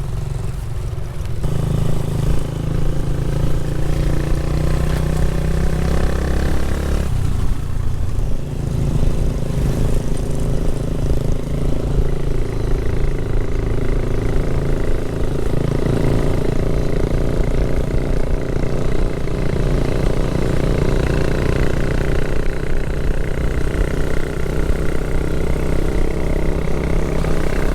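Motorcycle engine running as the bike is ridden: its pitch climbs for several seconds, drops abruptly about seven seconds in as at a gear change, then holds steady.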